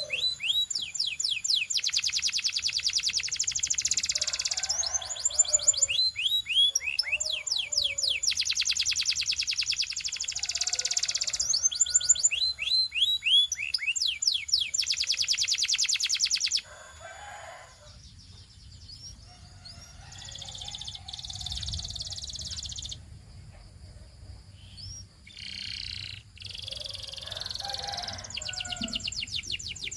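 Canary singing in fast rolling trills of quickly falling notes, loud for the first half. About halfway through the song drops to softer, broken phrases, then picks up again near the end.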